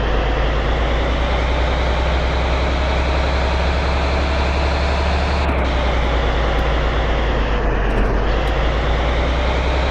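Steady engine running with a deep rumble and a faint, slowly wavering hum above it.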